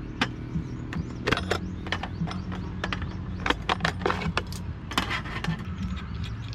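Irregular sharp clicks and clatters, like hard objects being handled, over a steady low hum.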